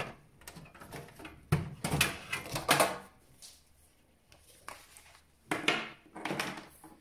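Handling noises from working inside a desktop PC case: cables and parts being pulled out and moved, rustling and clicking in two spells with a quieter pause between.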